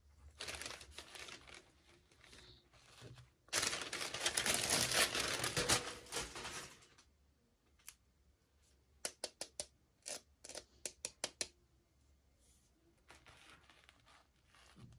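Toy packaging being opened by hand: rustling and tearing, loudest from about three and a half to seven seconds in. It is followed by a quick run of small clicks and taps, then a light rustle near the end.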